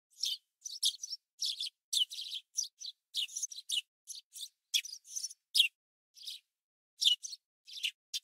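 Small bird chirping: a quick, busy run of short high chirps, several a second with brief gaps between them.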